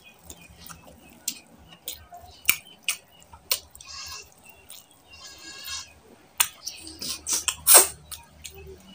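Close-miked eating of mutton curry and rice: wet chewing and lip smacks in quick clicks, with two short squeaky, pitched sounds from the mouth in the middle and a loud wet smack near the end.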